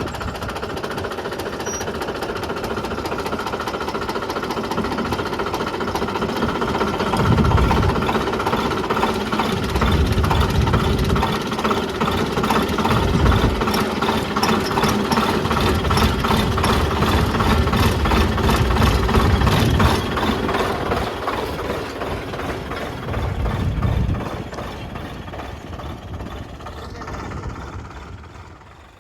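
Tractor diesel engine running steadily with a rapid, even beat while pulling a tined cultivator through the field to mark rows, with low rumbles coming and going. The sound fades away over the last few seconds.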